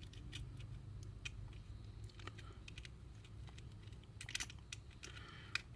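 Faint small clicks and taps of hands handling an HO scale model locomotive and its battery test leads, with a short flurry of clicks about four seconds in, over a faint low hum.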